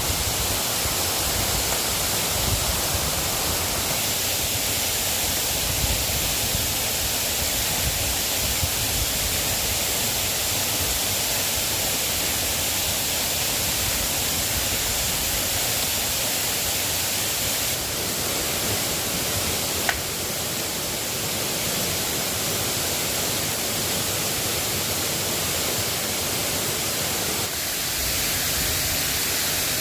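Steady rain falling, a continuous hiss without a break, with a single small click about twenty seconds in.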